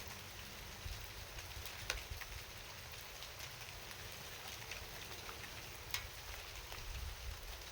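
Rain falling steadily, an even hiss with scattered single drops ticking sharply now and then over a low rumble.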